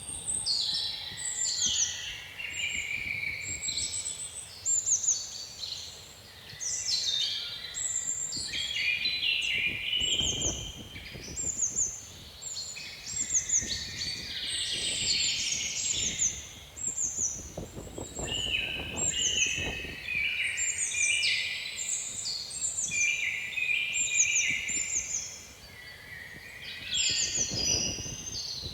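A chorus of songbirds singing and calling continuously, many overlapping chirps and short high down-slurred notes. A few gusts of wind rumble low on the microphone, about ten seconds in, again around eighteen to twenty seconds, and near the end.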